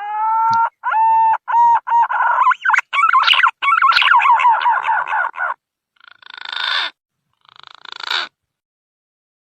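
Green pigeon (punai) song played as a bird-lure call: a run of whistled, wavering notes and quick warbles, then two shorter rising phrases about six and eight seconds in.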